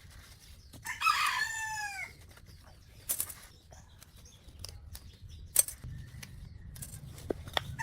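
A rooster crows once, about a second in, its call falling in pitch at the end. A few sharp knocks follow later.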